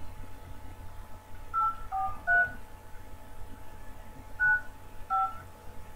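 Touch-tone beeps of a phone keypad as a number is dialed: five short two-note tones, three in quick succession about a second and a half in, then two more near the end.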